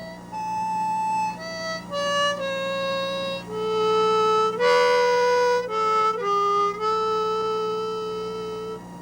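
Solo wind instrument playing a slow melody of held notes, with several notes sounding together briefly near the middle, over a steady low hum.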